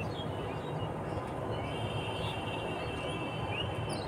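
Birds chirping faintly: a few short rising chirps and a thin, high held note, over steady background noise.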